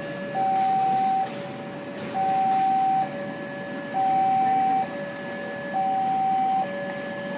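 Railway level-crossing warning alarm sounding a repeating two-tone high-low signal, each tone held just under a second. It warns that a train is approaching.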